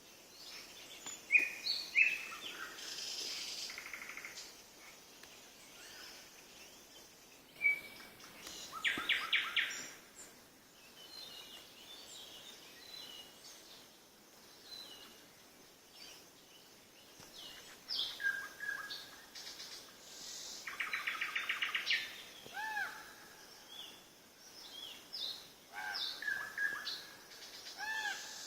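Several songbirds singing and calling, with short chirps and whistles throughout and, twice, a rapid trill of evenly repeated notes lasting over a second.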